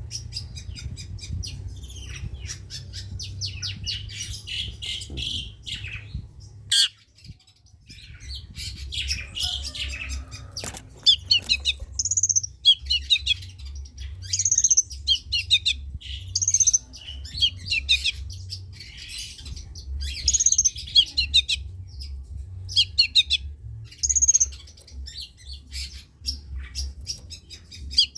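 Long-tailed shrike (cendet) singing: a fast run of scratchy chattering notes, a brief break about seven seconds in, then short repeated phrases every second or two, each starting on a high note and sliding down. A steady low hum runs underneath.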